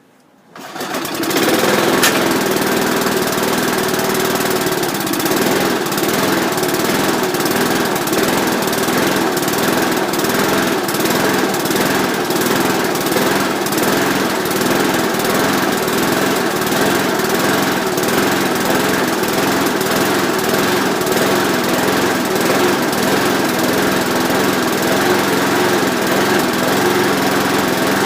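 Rover rotary lawn mower's Briggs & Stratton engine starting from cold: it catches about a second in and then runs steadily.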